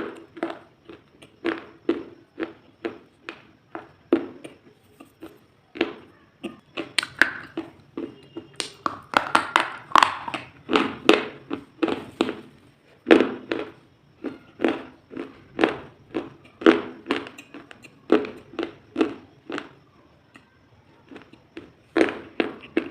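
Rhythmic crunching of something brittle, about two crisp crunches a second. It grows denser and busier midway, with a short pause near the end.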